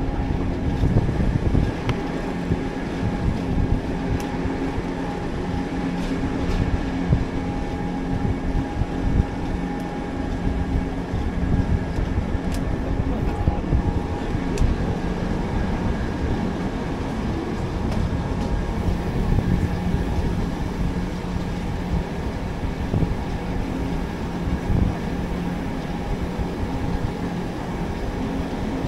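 Mountain train running downhill, a steady rumble of wheels on the rails with a constant electric hum under it, heard from outside the carriage window.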